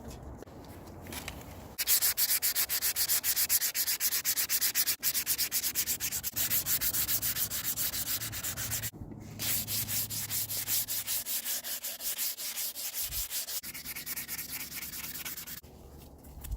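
Sandpaper being rubbed by hand on a vintage hatchet in quick, regular back-and-forth strokes. The sanding starts about two seconds in, breaks off briefly midway, and stops just before the end.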